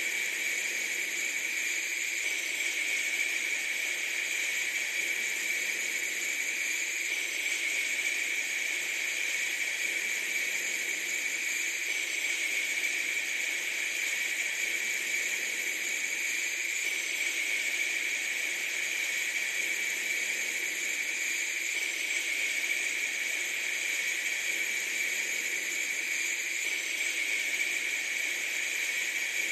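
Steady hiss-like noise, brightest in the upper-middle and high range, with a faint pattern repeating about every five seconds.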